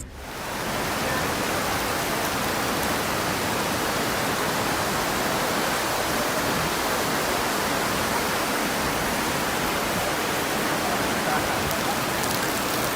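Steady rush of pouring water in a heavy rainstorm flash flood.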